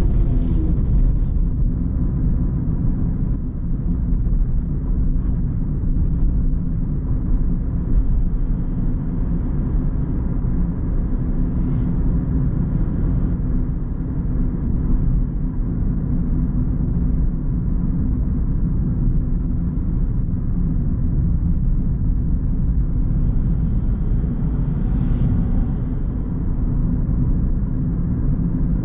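Car driving along at a steady pace: engine and tyre road noise as a steady low rumble.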